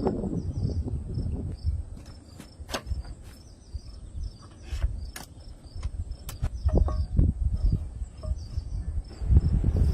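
Crickets chirping in a steady repeating pulse, about two to three chirps a second, over a low rumble with scattered clicks and knocks.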